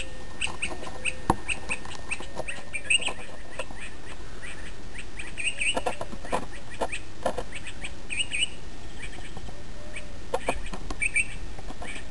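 Birds calling at dawn: short high chirps repeating about twice a second, with lower, arching calls mixed in, over a steady background hiss.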